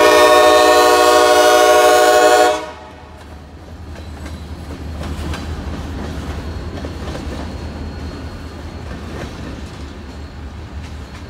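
Wheeling & Lake Erie SD40-2 diesel locomotive's air horn sounding one long blast, a chord of several notes lasting about two and a half seconds, for a road grade crossing. Then loaded freight boxcars roll past with a steady rumble and the clatter of wheels over rail joints.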